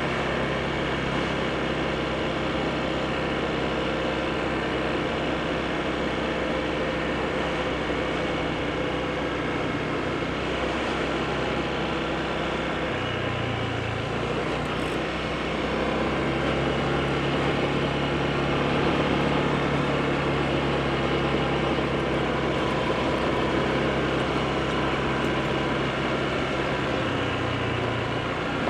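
Honda PCX scooter's single-cylinder four-stroke engine running steadily on the move, with wind and road noise. The engine note shifts about halfway through, and it then gets a little louder.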